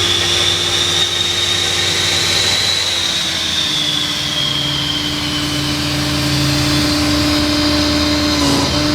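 Hydraulic-driven Van Air air compressor running on a service truck, with compressed air hissing freely out of an open hose end that has no fitting, over the steady hum of the truck's engine. The high hiss rises slightly, then fades out after about three seconds, and the machine's pitch drops a little at the same time.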